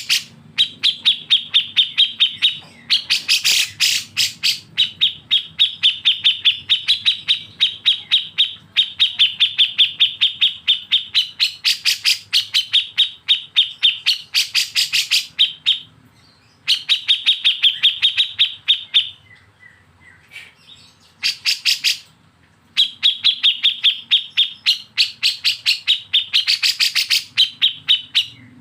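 Bulbul singing its 'besetan' song: long runs of rapid, evenly repeated sharp notes, several a second, broken by a few short pauses.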